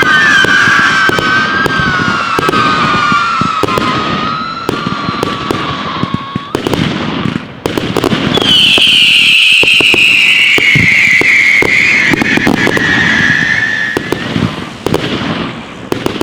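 Fireworks going off: many sharp cracks and bangs under several overlapping shrill whistles. After a short lull about seven seconds in, a new loud whistle starts high and slowly falls in pitch for about six seconds.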